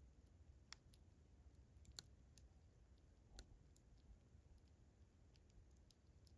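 Campfire crackling faintly: sparse sharp pops and ticks from burning wood, three louder pops in the first half, over a low steady rumble.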